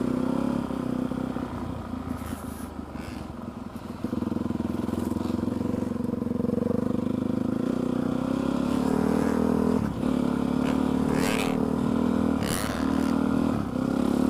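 Dirt bike engine heard from inside the rider's helmet while riding a motocross track, the revs rising and falling with the throttle. It eases off about two seconds in, then picks up, with the throttle chopped briefly several times in the second half.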